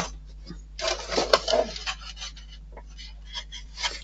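Small model-kit parts being handled and fitted together: a run of light clicks and taps, with a short spell of scraping and rubbing about a second in.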